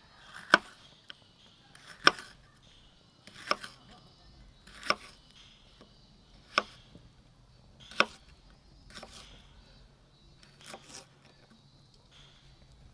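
Knife chopping food on a cutting board in slow single strokes: six sharp knocks about a second and a half apart, then a few softer ones.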